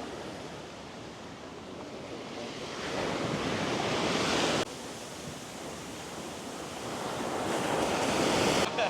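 Waves washing onto a beach, the surf swelling and falling back, with wind buffeting the microphone. The sound breaks off abruptly twice, about halfway through and near the end.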